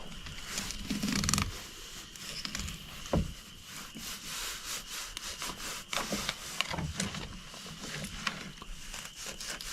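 Fillet knife cutting a walleye fillet away over the fish's rib cage: irregular scraping and rubbing with scattered short clicks.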